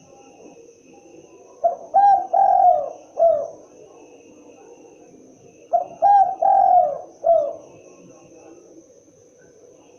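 Spotted dove cooing: two phrases of about four short falling notes each, one soon after the start and one past the middle, with a pause between.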